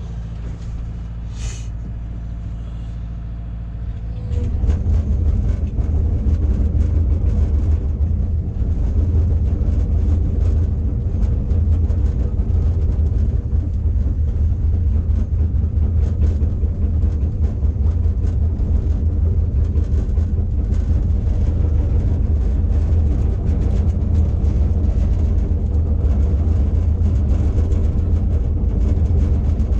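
Backhoe's diesel engine running steadily at low revs, then opened up about four seconds in and running on louder and steady at higher revs. A brief high squeak comes early.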